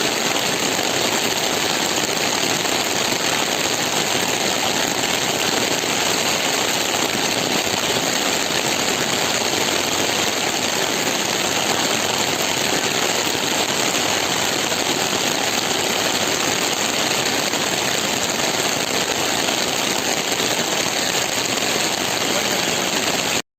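Heavy monsoon rain pouring steadily, a dense even hiss that cuts off abruptly near the end.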